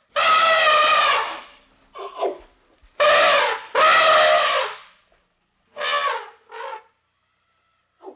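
Elephant trumpeting in a series of brassy blasts: one long call, a short softer one, two loud calls back to back, then two shorter, fainter calls.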